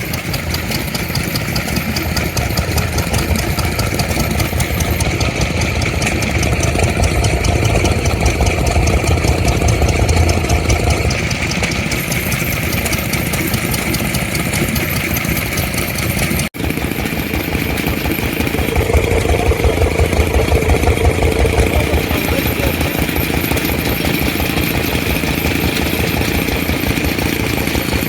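Vintage engine running steadily at idle with a rapid, even firing beat, broken for an instant about halfway through.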